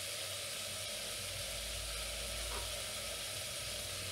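Steady soft sizzle of fenugreek, mint and coriander leaves frying in hot oil in an open pressure cooker, a faint low rumble underneath midway.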